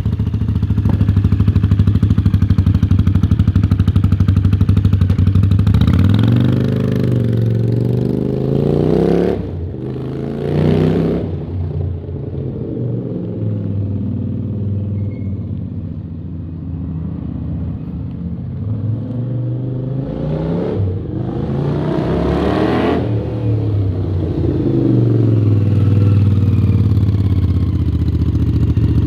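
Honda CX500 water-cooled V-twin running through a stainless 2-into-2 exhaust. It is revved up and drops back sharply, blipped once, eased down for a while, then revved again and held at a steadier, louder run near the end.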